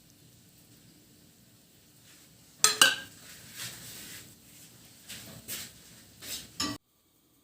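Dishes and cutlery clinking: two sharp clinks about two and a half seconds in, followed by several lighter clatters, then the sound cuts off suddenly near the end.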